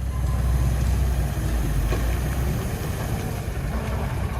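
A heavy engine running steadily with a deep low rumble, typical of a logging machine or truck at work.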